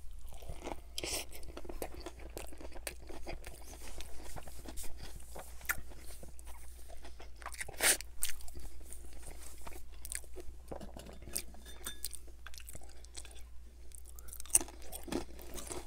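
Close-miked chewing of a big mouthful of Whopper burger, with wet mouth sounds and a steady scatter of small crunching clicks.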